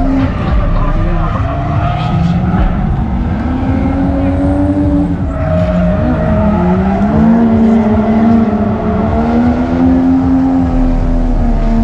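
Car engines running and revving, several engine notes rising and falling over a steady low rumble.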